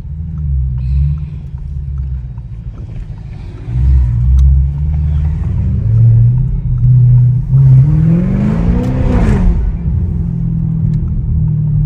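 Straight-piped Audi S7 exhaust droning while driving, louder from about four seconds in. Around eight seconds in it revs up and falls back with a rush of noise, then settles into a steady drone.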